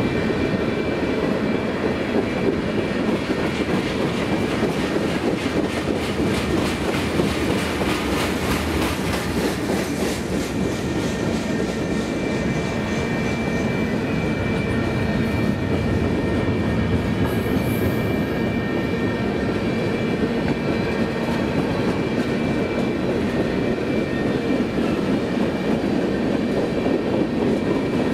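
Freight cars of a passing train rolling by: a steady rumble of steel wheels on rail, with clicking of the wheels that is busiest about six to ten seconds in and a thin, steady, high-pitched wheel squeal.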